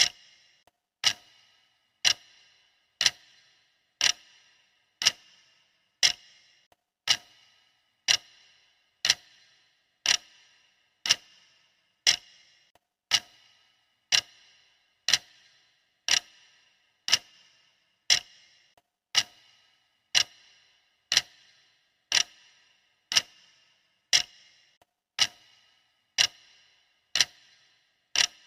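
Clock ticking steadily, one sharp tick a second, each tick with a brief ringing tail.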